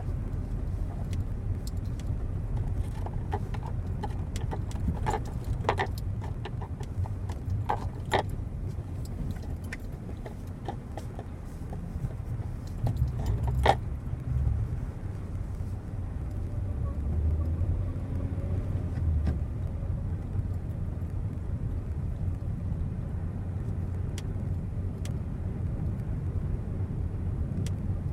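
Hyundai Creta 4WD driving slowly in hard frost: a steady low engine and road rumble with short, irregular squeaks and clicks from underneath the car, most of them in the first half. The squeak comes from the cardan driveshaft's centre support bearing, later found faulty and replaced.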